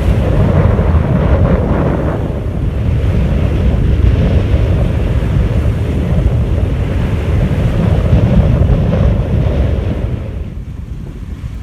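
Wind buffeting the microphone over the rush of waves, on a sailboat under way at sea. It eases about ten and a half seconds in.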